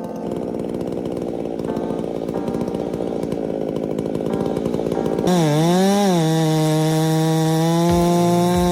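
Chainsaw engine running: a rough, lower stretch for about five seconds, then the pitch jumps up to a steady high whine at full revs. The whine dips and recovers once, shortly after the jump.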